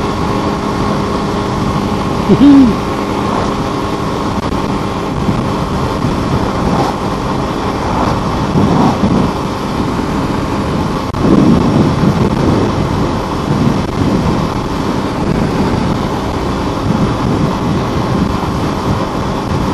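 Wind rushing over the microphone on a moving motorcycle, with a Suzuki Inazuma GW250's parallel-twin engine running steadily underneath at cruising speed.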